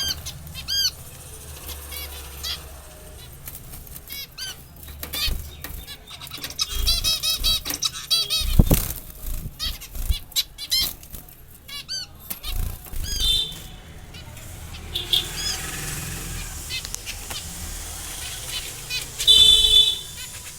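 Pet finches chirping with many short, quick calls and fluttering their wings, with one louder knock about halfway through.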